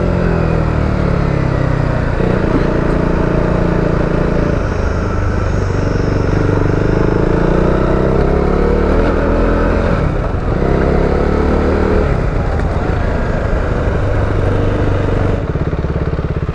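KTM Duke 390's single-cylinder engine running under way, the revs rising and falling several times with brief dips between. It settles to a steadier, lower note near the end.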